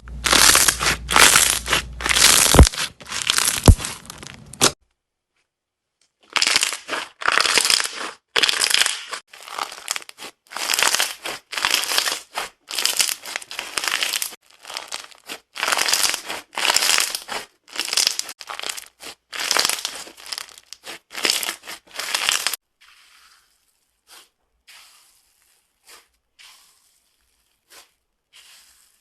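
Brittle material being crushed, giving crisp crackling crunches. Dense crackling for the first few seconds, a short break, then a long run of separate crunches about two a second, dying down to a few faint ones near the end.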